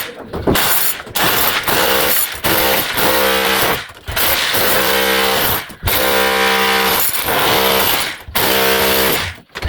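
A power tool running in repeated bursts of about one to two seconds, with short breaks between them.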